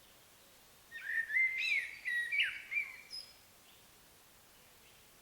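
A songbird sings one short phrase of whistled notes that slide up and down, starting about a second in and lasting roughly two seconds.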